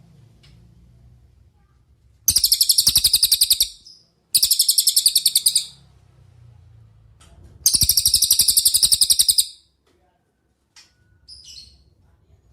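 Cililin bird calling: three loud, fast rattling trills of about a second and a half each, high-pitched, coming about two, four and eight seconds in. A few faint short high notes follow near the end.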